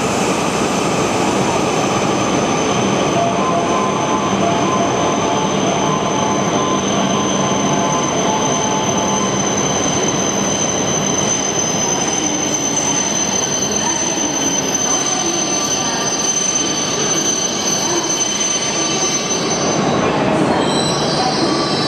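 A 17-car Tohoku Shinkansen train (E5 series coupled to E6 series) pulling into the platform and slowing. It makes a loud steady rush of running noise with a thin high squeal that stops about 20 seconds in.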